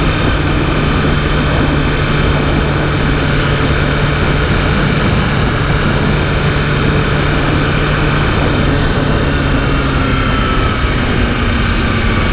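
An engine running steadily with a low hum, its pitch shifting slightly near the end.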